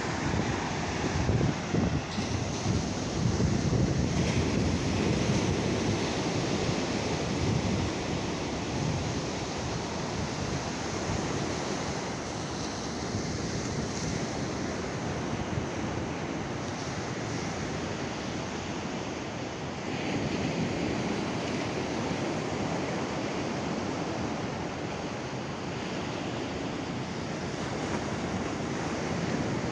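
Atlantic Ocean surf breaking and washing on the beach: a continuous rushing that swells louder near the start and again about two-thirds of the way through.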